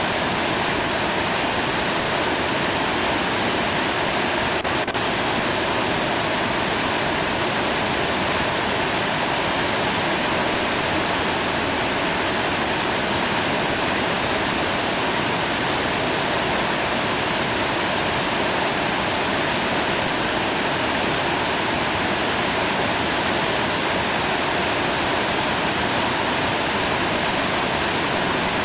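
Whitewater rapid rushing steadily: an even, unbroken wash of moving water.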